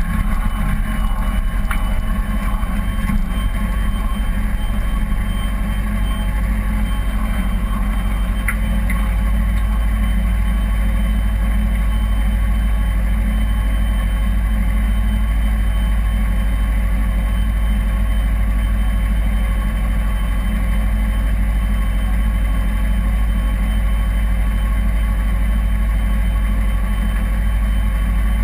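Kawasaki Ninja 250R's parallel-twin engine running steadily at an even speed, with no revving up or down.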